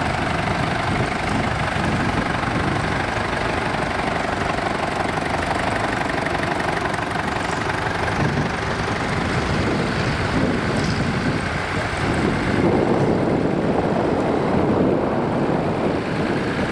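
Nuffield tractor engines running as the tractors drive around an arena. About three-quarters of the way in, the sound grows louder and deeper.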